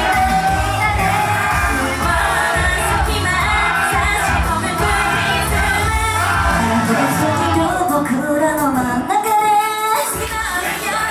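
Japanese idol pop group's female voices singing live over a loud pop backing track. The bass and beat drop out about two-thirds of the way through, leaving the voices over a lighter accompaniment, then come back in near the end.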